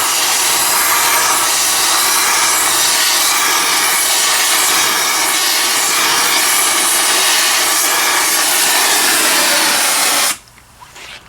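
Gas torch flame burning with a loud, steady hiss, heating around a seized kingpin to free it. The hiss cuts off suddenly near the end, leaving a few small knocks.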